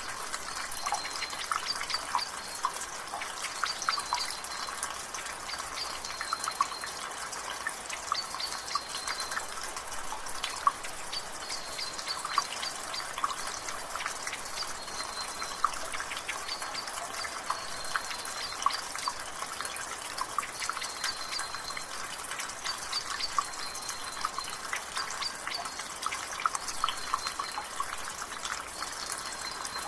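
Water dripping from a gutter in steady drizzle, with many irregular drips over an even hiss of rain. A bird repeats a short high note about every second or two in the background.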